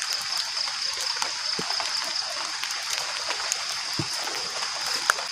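Light rain falling steadily, a hiss with scattered drips and ticks, over a steady high-pitched whine.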